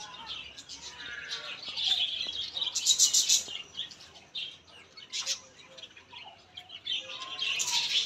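Several small birds chirping and twittering at once in quick, overlapping calls, densest about three seconds in and again near the end.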